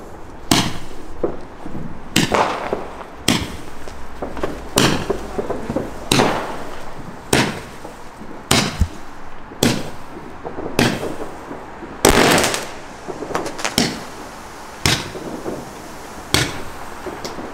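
Fireworks going off in a rapid, uneven series of sharp bangs, about one a second, each with a short echo. The biggest bang comes about twelve seconds in.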